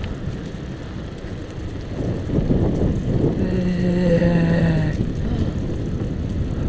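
Wind and road rumble on the microphone of a moving bicycle, a steady low buffeting. From about three seconds in, a held humming tone joins for about a second and a half, sagging slightly in pitch before it fades.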